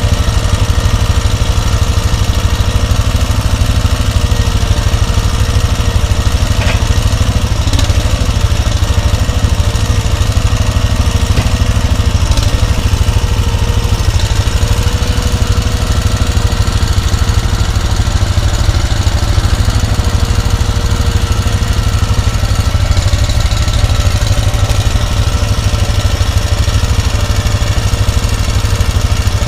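Engine running steadily at an even speed, with a heavy low rumble underneath and no revving or stopping.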